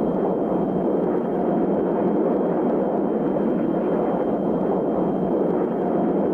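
Jet engines running with a steady rushing noise and a faint high whine above it.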